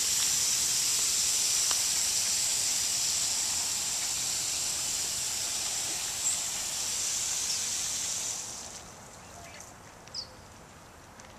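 A steady, high-pitched insect chorus that falls away sharply about eight and a half seconds in, leaving a quiet background with a few short bird chirps.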